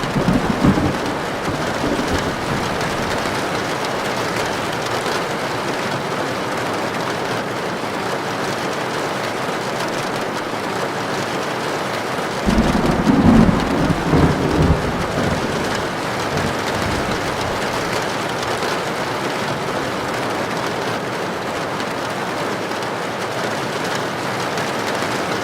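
Heavy rain drumming steadily on a tin roof, with a short roll of thunder at the very start and a longer, louder low rumble of thunder about halfway through.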